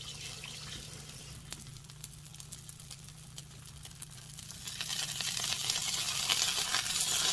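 Fritter batter frying in oil in a cast iron skillet: a steady sizzle with small crackles, growing louder and brighter from about two-thirds of the way in.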